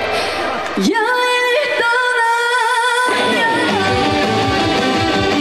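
Female trot vocal over backing music: about a second in, the accompaniment drops out and she holds one long note with vibrato alone, then the full backing comes back in.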